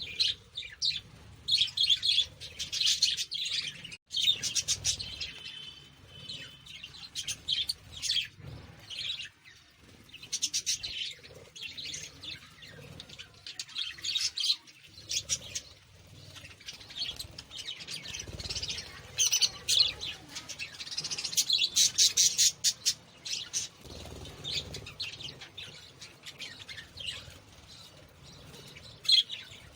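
Small birds chirping and twittering in quick runs of high, short chirps, with brief pauses between runs.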